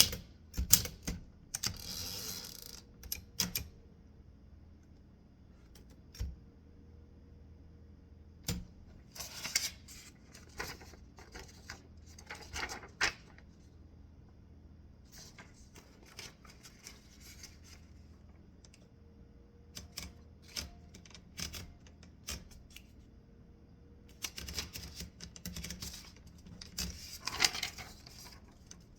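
Typewriter keys striking in bursts of rapid clacks, separated by pauses of a few seconds.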